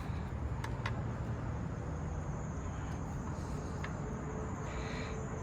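A rubber intake boot being worked down over a motorcycle carburetor by hand, with a few faint clicks about a second in and some rubbing near the end, over a steady low hum.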